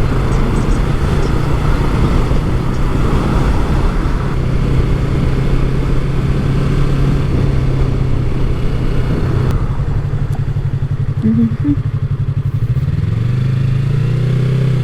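Yamaha MT-03's parallel-twin engine running under way with wind rush. About ten seconds in, the bike slows and the wind drops. Near the end, the engine pitch rises as it speeds up again.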